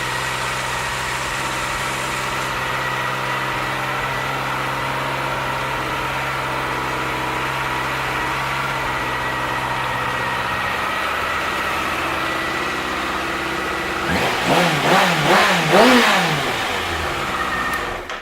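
2009 Kawasaki ZX-6R's inline-four engine idling steadily, then blipped through a few quick revs that rise and fall in pitch about fourteen seconds in, before it cuts off suddenly at the very end.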